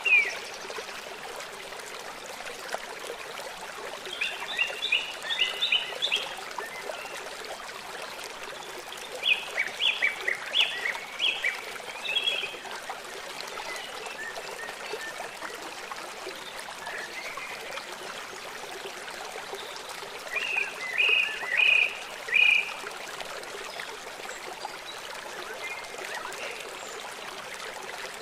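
A river running steadily, with three bursts of short, quickly repeated animal calls, each lasting a second or two, near the start, in the first half and about two-thirds of the way through.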